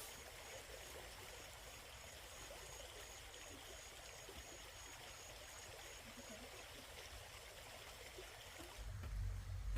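Steady running water, an even rush, with a low rumble coming in near the end.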